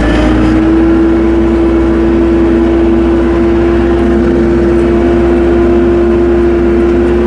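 Tractor engine running steadily while driving, with a strong steady whine that holds one pitch and creeps slightly higher over a low rumble.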